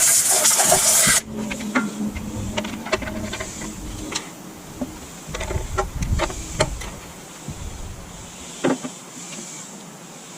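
A loud hiss of spray or air for about a second that cuts off suddenly, followed by scattered clicks and light knocks of small metal parts being handled.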